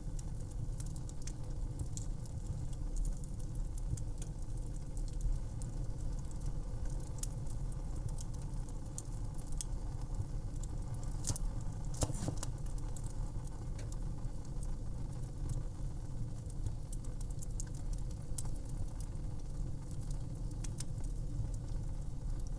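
Fire in a fireplace crackling: a steady low rumble of flames under frequent sharp pops and snaps, with a brief flurry of louder pops about twelve seconds in.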